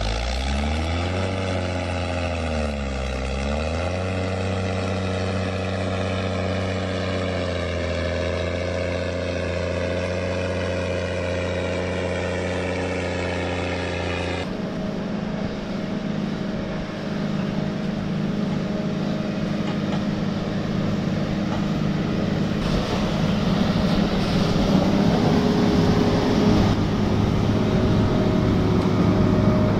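An engine running steadily, its pitch dipping and recovering once a couple of seconds in. About halfway through it cuts to a rougher, noisier engine sound that grows louder near the end.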